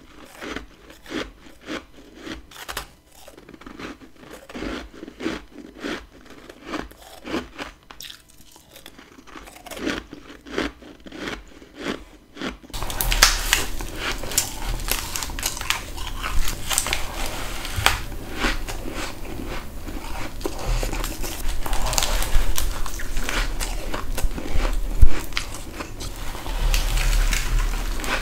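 Close-miked biting and chewing of frozen humidifier frost ice, a run of short crisp crunches. About twelve seconds in, a louder, denser crunching takes over with a low rumble underneath.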